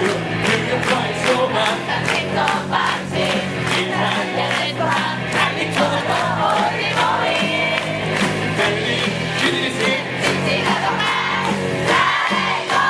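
A live band playing an upbeat song with a steady beat, while the audience shouts and cheers along.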